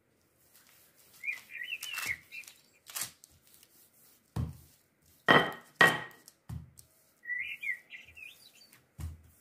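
A small bird twittering in two short chirping phrases, one near the start and one near the end, over scattered thuds and knocks from a wooden rolling pin working dough on baking paper. Two sharp knocks just past the middle are the loudest sounds.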